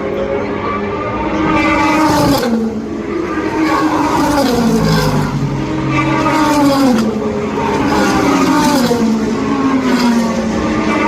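Race cars running hard past on the track, one after another, their engines' pitch climbing and then dropping again several times.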